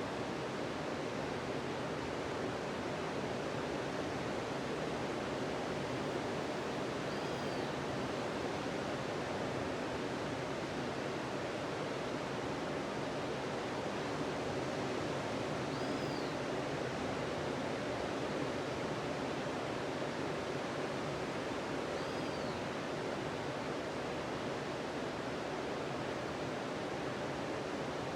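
Steady wash of ocean surf on a sandy beach, an even rushing with no single wave break standing out.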